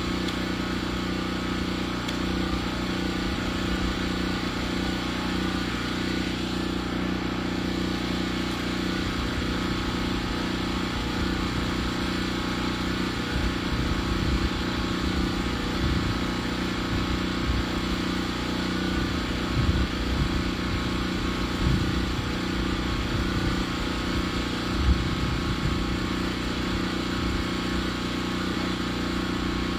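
Engine of a sawmill running steadily at a constant speed, with some irregular low knocks in the second half.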